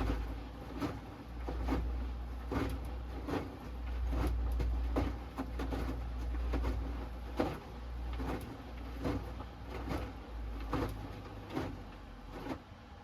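Hoover Axi 10 kg front-loading washing machine in the wash phase of its Rapid 30' programme: the drum motor turns the load, with wet laundry and water thudding and sloshing about once a second. The drum stops shortly before the end.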